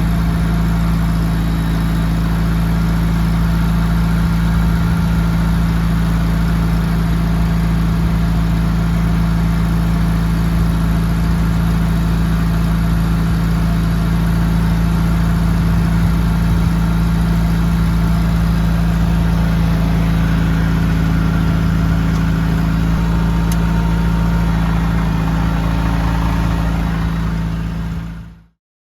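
International 444 tractor engine idling steadily at a constant speed, then cutting off abruptly near the end.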